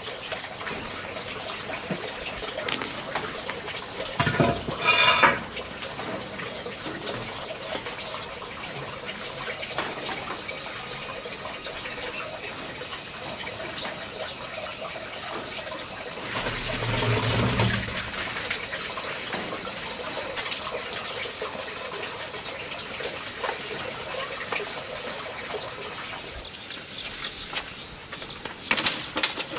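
Running water of a stream, a steady rush, with two louder surges about four seconds in and again past the middle.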